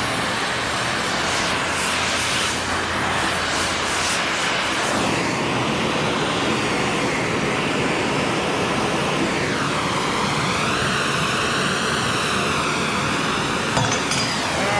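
A steady, jet-like roar with a hiss whose tone slowly wavers, with a small click near the end.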